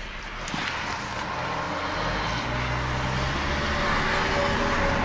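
1999 Volvo S70's five-cylinder engine running, heard from inside the cabin, getting louder over the first few seconds as the car is put in gear and pulls away, then holding steady.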